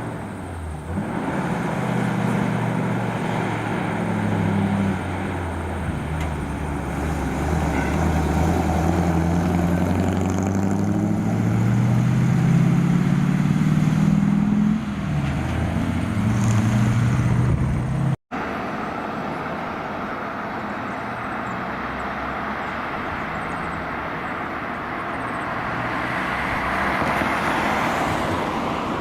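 Heavy truck's diesel engine pulling under load, its pitch climbing slowly, dipping about halfway through as if changing gear, then climbing again until the sound cuts off abruptly. After the cut, steady road and tyre noise from passing traffic swells toward the end.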